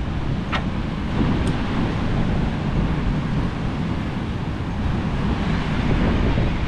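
Wind buffeting the microphone: a steady, uneven low rumble with a faint click or two early on.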